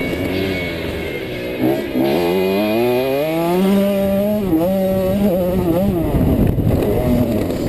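KTM 65 two-stroke motocross bike engine revving hard, its pitch climbing steadily for a couple of seconds, dropping suddenly about halfway through as the throttle is closed or a gear is changed, then rising again before easing off near the end.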